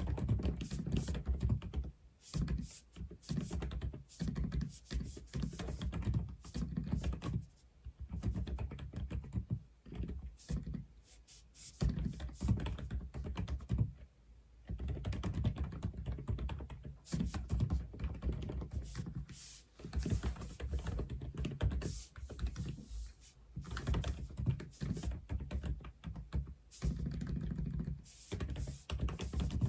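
Typing on an Aula F87 mechanical keyboard: a steady run of keystrokes in bursts, broken by short pauses every few seconds.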